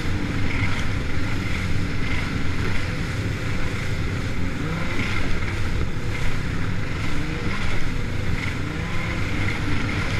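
Jet ski under way, its engine droning steadily with water rushing and wind on the microphone.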